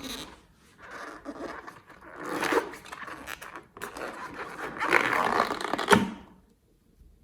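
Hands squishing and kneading slime: wet squelching and crackling in several irregular bursts, the loudest about five to six seconds in.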